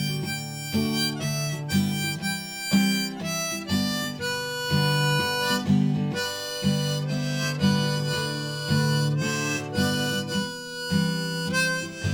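Acoustic guitar strummed under a harmonica melody of held notes, changing every half second or so: an instrumental ending to a slow country-blues song.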